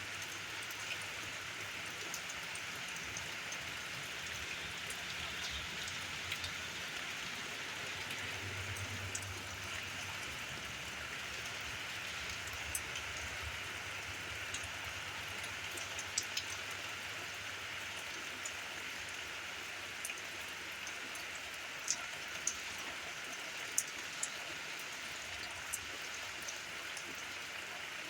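Steady rain falling: an even hiss, with scattered single drops ticking sharply on a nearby surface, more of them in the second half.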